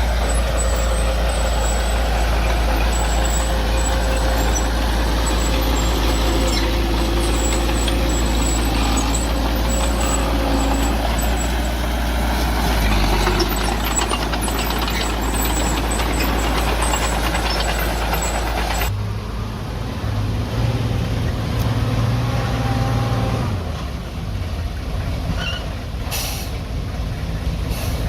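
Heavy diesel earthmoving machinery running steadily with a strong low rumble. About two-thirds of the way through, the sound changes abruptly to a lighter, different engine note.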